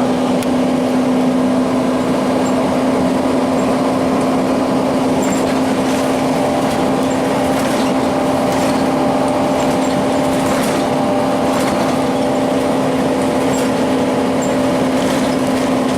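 Cummins ISC inline-six diesel of a 2002 Blue Bird CS transit bus running with a steady, unchanging drone, without revving up or down. A few faint ticks or rattles come through over the engine sound.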